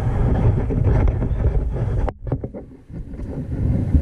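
Wind buffeting the microphone as a heavy low rumble. It cuts out abruptly about halfway through, a few clicks follow, and the rumble builds back up near the end.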